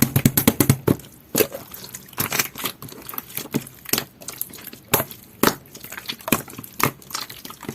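Jelly-textured clear slime being squished and pressed by hand, giving wet, sticky clicks and pops: a quick run of them in the first second, then scattered ones.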